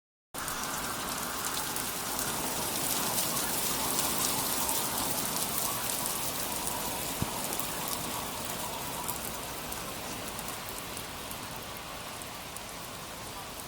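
Steady rain falling, a dense patter of separate drops over a continuous hiss, growing a little softer in the second half.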